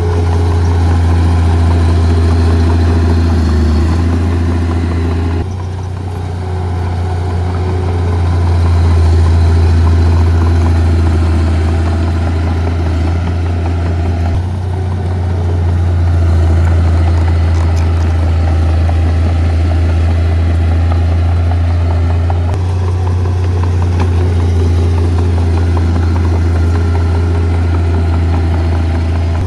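Heavy earth-moving equipment's diesel engines running with a strong low drone, swelling and easing as they work. The sound shifts abruptly a few times.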